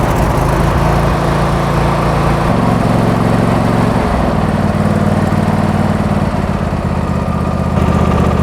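The newly installed engine of a Husqvarna riding lawn tractor running steadily and loudly just after starting, its engine speed stepping up about two and a half seconds in and shifting again around four seconds in.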